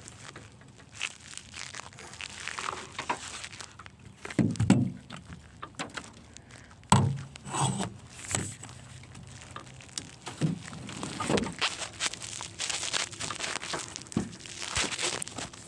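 Irregular knocks, bumps and rustling close to the microphone, typical of gear being handled. The loudest knocks come about four and a half and seven seconds in.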